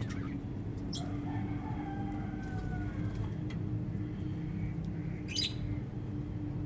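Birds squawking: a sharp squawk about a second in and another near the end, with softer gliding calls between them, over a steady low hum.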